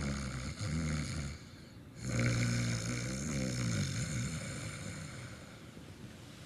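A woman snoring in her sleep: two long snores, the second starting about two seconds in and trailing off.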